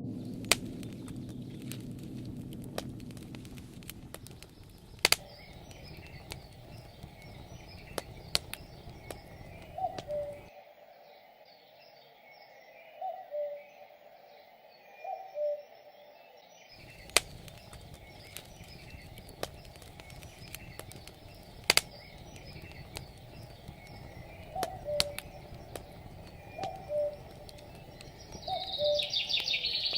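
Forest birds calling: one bird repeats a two-note call, the second note lower, again and again over faint chirping from small birds. Sharp clicks come here and there, and a quick falling trill of high notes sounds near the end.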